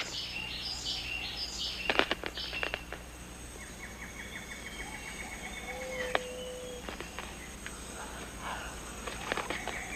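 Rainforest ambience: a steady high insect drone with scattered bird calls. A few sharp ticks come about two seconds in, and a rapid run of short chirping notes follows midway.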